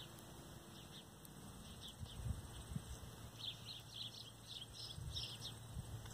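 Small songbirds chirping faintly in the treetops: many short, high chirps, thickest from about three and a half to five and a half seconds in. A few soft low thumps are heard as well.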